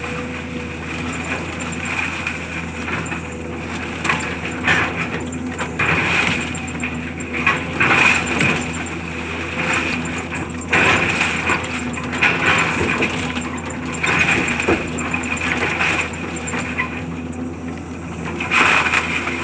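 A heavy machine's engine running steadily while debris is crushed and clatters in repeated bursts every second or two, typical of demolition work.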